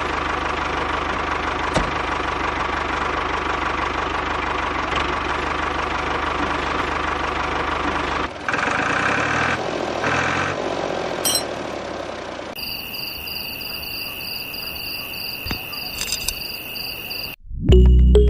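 A small motor in a DIY model tractor running steadily with a low rumble. About eight seconds in the sound changes, and in the last few seconds a steady high whine takes over before music comes in near the end.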